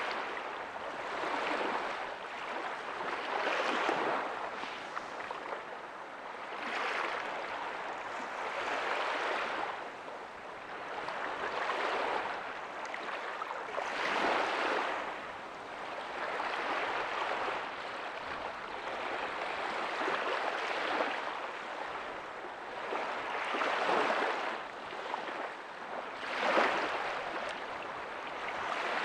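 Small ocean waves breaking softly on a beach, a steady wash of surf that swells and fades every few seconds.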